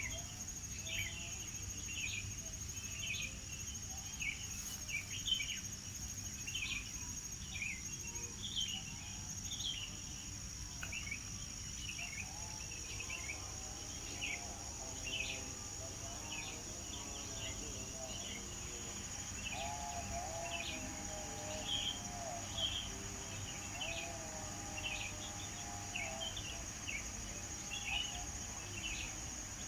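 Many short bird chirps repeating irregularly throughout, over a steady high-pitched insect drone such as crickets. Lower warbling bird notes join about twelve seconds in.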